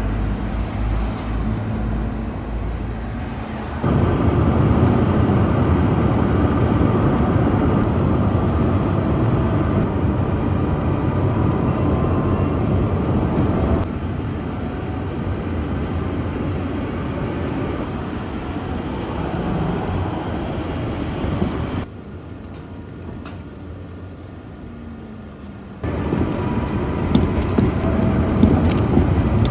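Toyota COMS single-seat electric microcar driving, with a steady rumble of road and running noise that rises and falls with the drive and drops away for a few seconds near the end. A faint, rapid, high-pitched ticking comes and goes over it, plausibly the abnormal noise the new car developed within a month of delivery.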